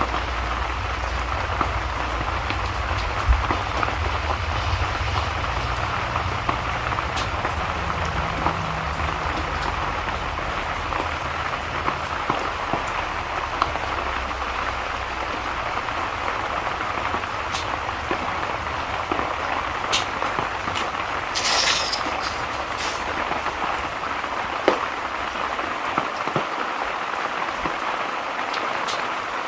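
Steady rain ambience, with scattered sharp crackles and a low rumble underneath that fades away in the second half.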